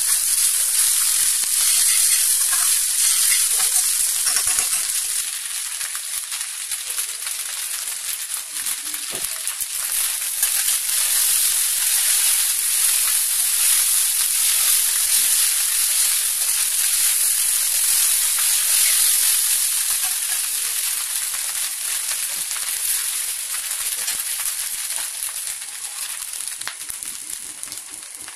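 Vegetable fried rice sizzling in a hot kadai as it is stirred and tossed with a spatula. The frying is louder for the first few seconds, then quieter, and fades near the end.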